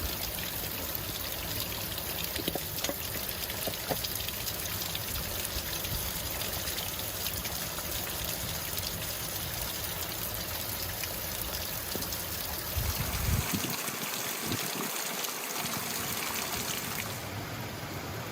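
Mountain stream running: a steady rush of flowing water. A low rumble underneath drops away briefly about two-thirds of the way through.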